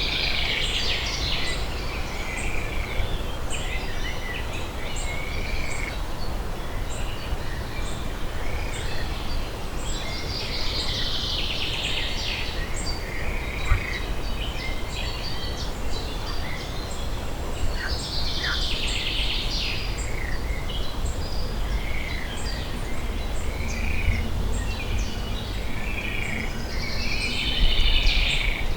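Pond-side ambience: small birds chirping and calling, with a denser, high chattering call about every eight seconds, over a steady low background rumble.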